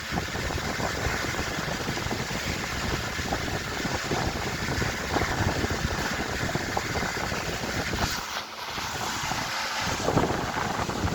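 Two antique Century S3-16 16-inch cast-iron electric fans running, their blades pushing a steady rush of air across the microphone, with the motors' hum underneath. The air noise dips briefly a little past the middle.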